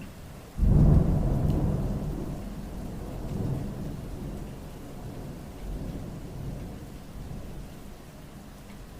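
A clap of thunder over steady rain: a sudden loud low crack about half a second in, rolling on as a rumble that slowly fades over several seconds, with a smaller swell a few seconds later.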